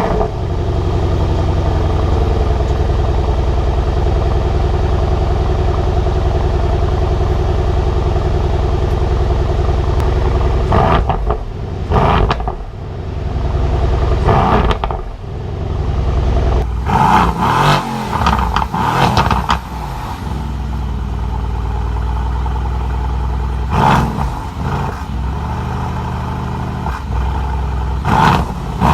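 2017 Mercedes-AMG C63's stock twin-turbo V8 and exhaust. It starts with a loud bark and settles into a steady idle for about ten seconds. It is then revved in short, sharp blips, with a longer rise and fall of the revs about halfway through and more blips near the end.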